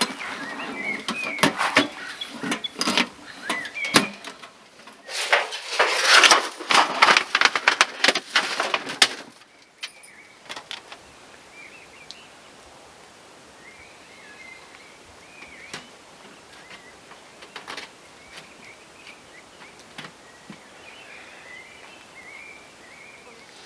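Close rustling and clicking handling noises for the first nine seconds or so, loudest from about five to nine seconds, then small birds chirping on and off.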